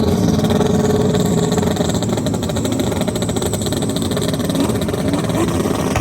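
Drag racing engines running hard at high revs, a dense rapid firing with short rising pitch sweeps near the end as the cars pull through the gears.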